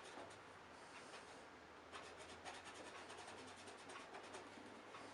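Faint, fast, even rubbing strokes: polishing the scratched casing of a 1980s Hoover Senior U4186 upright vacuum cleaner by hand, trying to buff out the scratches.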